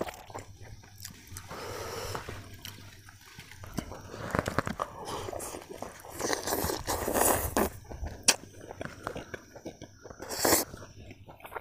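Close-miked eating sounds: a man chewing pieces of chicken with his mouth, irregular wet smacks and slurps, with a sharp click about eight seconds in.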